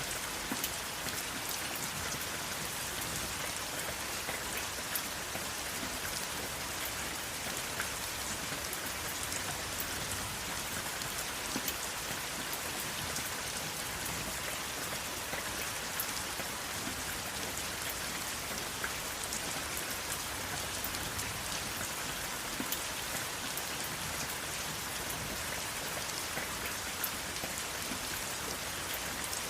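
Steady rain falling, a constant hiss dotted with many small drop ticks and patters, with no thunder.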